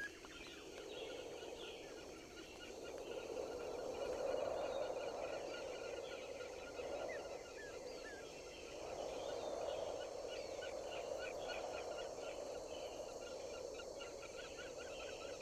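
Outdoor ambience of rapid, chattering bird calls over a rushing noise that swells and fades, loudest about four and nine seconds in.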